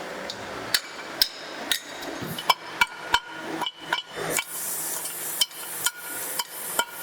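A hammer striking metal by hand, about a dozen blows at roughly two a second with a short pause in the middle, each strike leaving a brief ringing tone.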